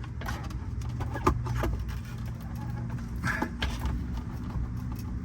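A few light metal clinks and knocks from a flathead screwdriver prying and tapping at a tight-fitting suspension part, over a steady low hum.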